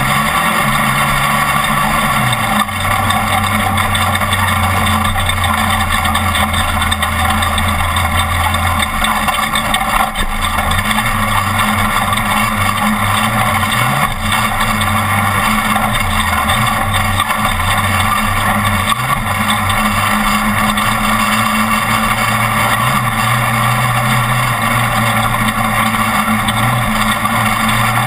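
Class 1450 off-road race truck's engine running hard at race pace, its low tone stepping down and back up several times with the throttle and gear changes, over a steady loud rushing noise.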